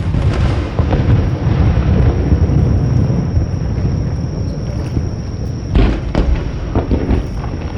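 Aerial fireworks shells bursting: a steady run of deep, rolling booms, with a sharp bang about six seconds in and a few smaller pops after it.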